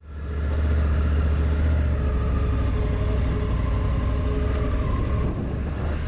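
Motorcycle engine running steadily under way, with a strong even low drone.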